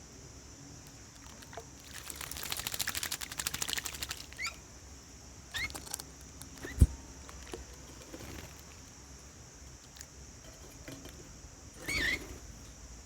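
Garden animal calls: a rapid chattering trill lasting about two seconds, then a few short rising chirps, over a steady high-pitched insect drone. A single sharp low thump comes about midway and is the loudest sound.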